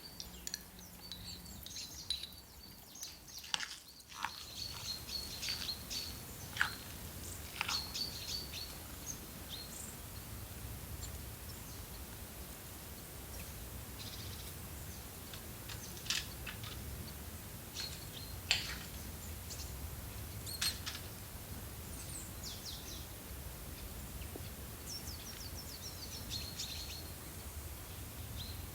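Small songbirds chirping and calling: short high notes and a few quick downward-sliding calls come scattered throughout, with a quick run of notes near the end, over a steady faint low background noise.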